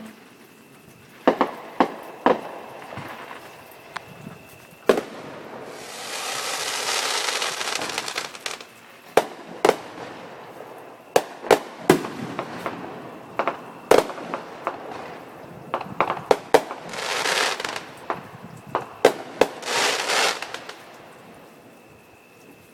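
Fireworks going off: a string of sharp bangs throughout, with three longer crackling, hissing stretches about six, seventeen and nineteen seconds in.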